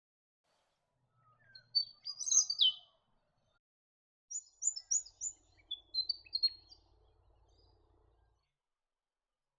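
Willie wagtail singing: two phrases of quick, high chirping notes, the first about a second in and a longer one from about four seconds in.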